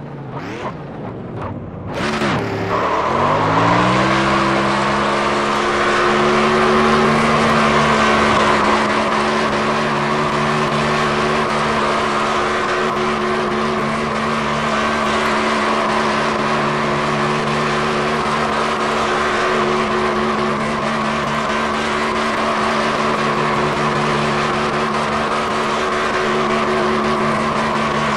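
Car engine swooping in pitch for the first couple of seconds, then climbing and holding a steady high speed for the rest, over heavy rushing wind and road noise.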